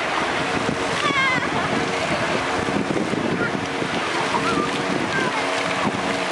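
Boat engine running steadily under wind and splashing water noise, with voices calling out briefly over it.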